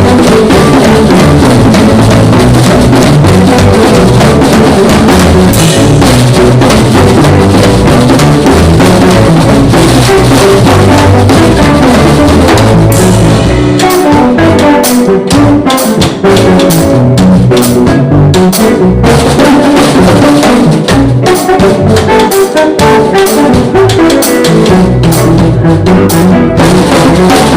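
Live band jamming at full volume, with the drum kit driving a steady beat. The recording is overloaded and harsh.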